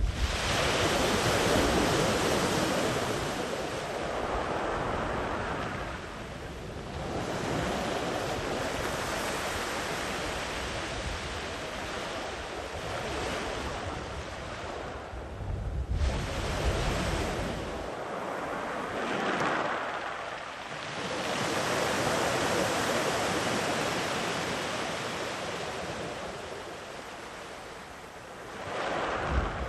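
Ocean surf breaking and washing up a beach in repeated swells, each rising and falling over a few seconds, with wind buffeting the microphone.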